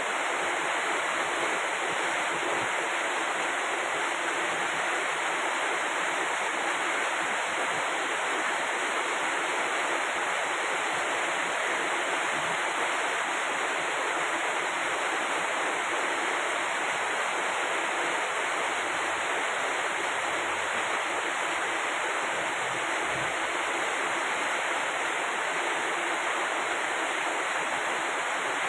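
Rain falling as a steady, even hiss, with no let-up.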